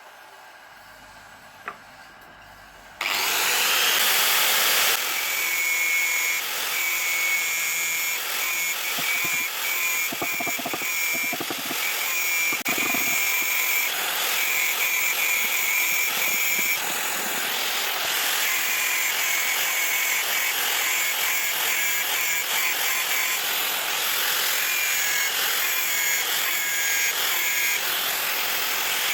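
Electric power tool starting up about three seconds in and then running steadily with a whine and scraping as it works the metal of the sickle blade.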